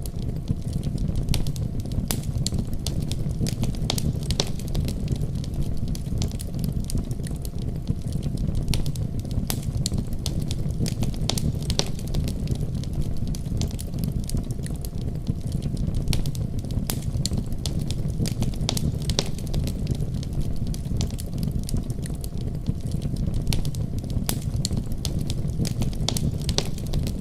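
Fire burning in a fireplace: irregular crackles and pops over a steady low rumble.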